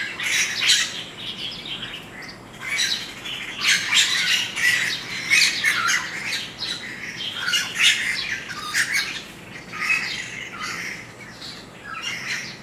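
Birds calling: many short calls in quick, irregular succession, often overlapping, with brief gaps.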